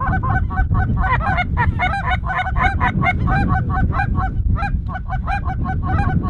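A flock of geese honking: a dense, continuous chorus of short overlapping calls, several a second, over a steady low rumble.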